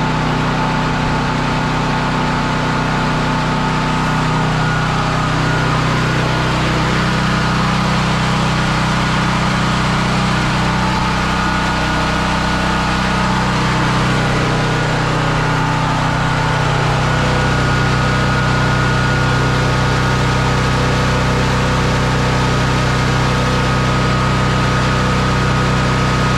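Firman T07573 tri-fuel portable generator engine running steadily. The owner thinks its speed is kind of high and is unsure whether that is normal. The low hum shifts slightly about two-thirds of the way through.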